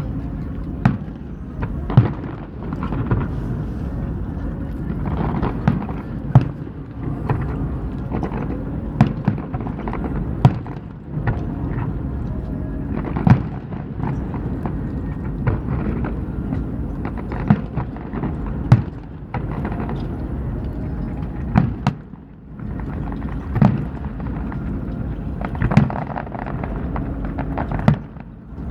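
Aerial firework shells bursting in a display: sharp booms at irregular intervals, about one every one to two seconds, over a steady low rumble.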